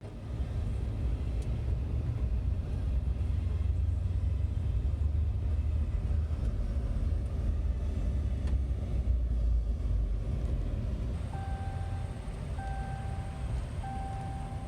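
Strong storm wind buffeting the microphone as a heavy, steady low rumble. Near the end, three steady electronic beeps of about a second each sound.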